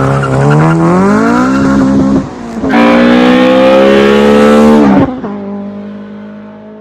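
Honda Civic's K20A2 2.0-litre four-cylinder engine pulling hard with rising revs, a short dip in the note as the gear changes, then a second loud pull. About five seconds in the throttle closes and the engine note drops sharply and fades.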